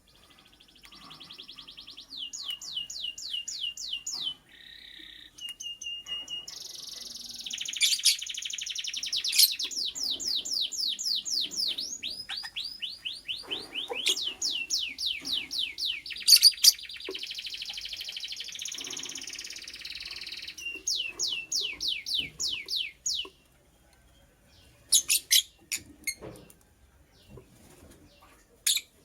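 Lovebird chirping in long, rapid runs of high, sharp notes, several a second, for about twenty seconds. Then only a few scattered chirps and clicks.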